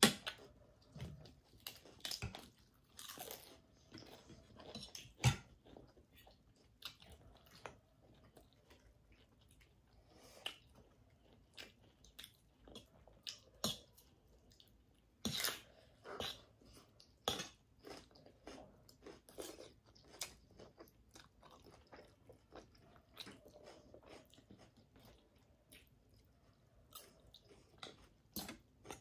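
Close-miked chewing and crunching of food during a mukbang: many short, irregular crunches and mouth clicks, including bites of raw leafy greens.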